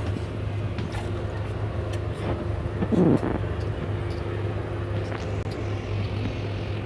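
Passenger train running, heard from on board: a steady low hum and rumble with scattered clicks, and a brief louder sound about three seconds in.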